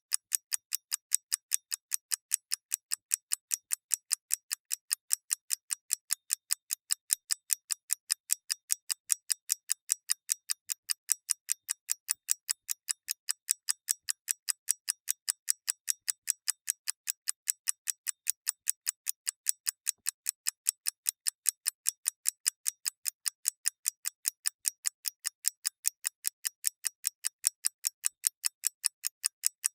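Clockwork movement ticking steadily and rapidly, about five crisp ticks a second.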